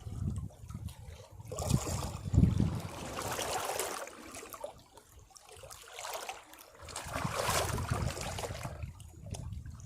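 Sea waves breaking against rocks in two surges of rushing water, the first about one and a half seconds in with low thuds as it strikes, the second about seven seconds in, with a quieter lull between.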